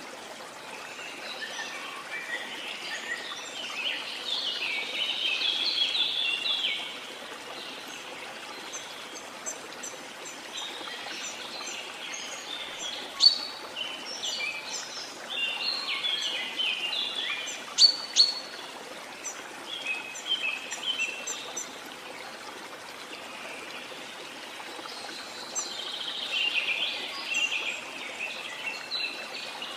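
Steady rushing water of a waterfall, with birds chirping and singing over it in several bouts of quick high notes. Twice in the middle, a sharp, loud high call stands out above the rest.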